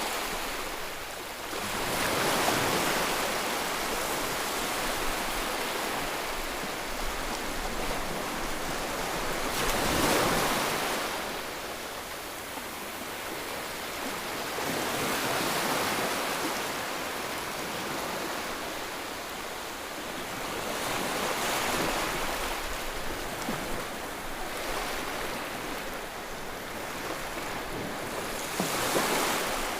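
Steady rushing white noise for soothing a baby, swelling and ebbing about every six seconds like surf.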